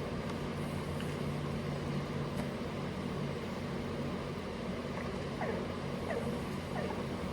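An engine running steadily at an even pitch, with a few short squeaky chirps over it in the last couple of seconds.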